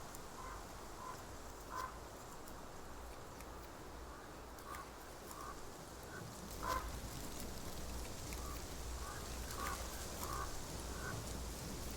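Frogs calling: a dozen or so short, scattered croaks over a faint steady hiss.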